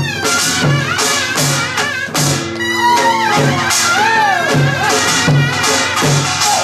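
Korean traditional music for a deotbaegi dance. Drum beats fall evenly about every 0.7 seconds under bright metallic percussion strikes, while a melody line slides and bends in pitch above them.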